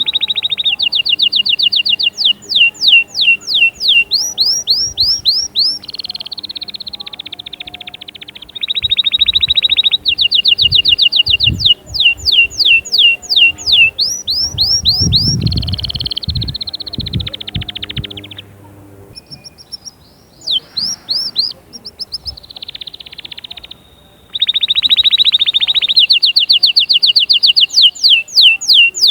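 Domestic canary singing a long, loud song: fast trills of rapidly repeated notes, each phrase a few seconds long, with short pauses between phrases. Faint low thumps come in about the middle.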